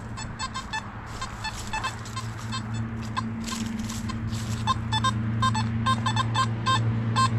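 Metal detector beeping with short, repeated tones as the coil is swept over targets, over a steady low hum that grows louder toward the end.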